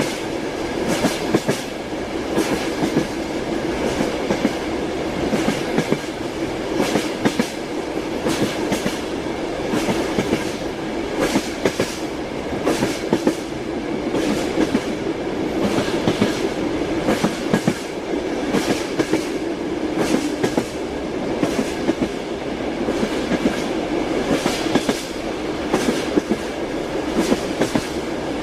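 Train wheels knocking over rail joints in a steady clickety-clack, with clusters of sharp clicks about every second over the continuous rumble of the moving carriage.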